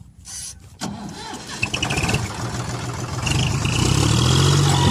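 Tractor engine starting up: it runs unevenly at first, then settles into a steady run about four seconds in.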